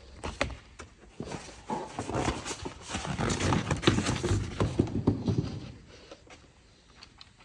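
A quick run of knocks and clatter from tools and parts being handled, busiest and loudest in the middle, then thinning out to a few faint clicks near the end.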